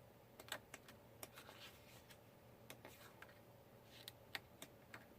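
Faint, scattered light clicks and taps, about a dozen of them, from scrapbook paper and supplies being handled on a tabletop.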